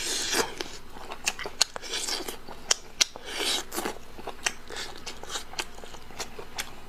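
Close-miked eating of braised pork leg: wet chewing with many sharp mouth clicks. Three short, louder hissing rushes come at the start, about two seconds in, and about three and a half seconds in.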